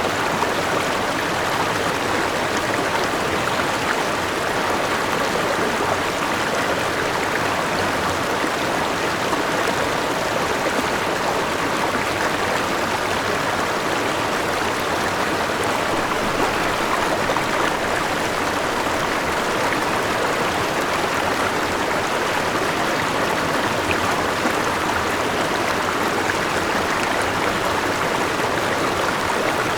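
Forest river rushing steadily over rocks, a continuous even flow of water.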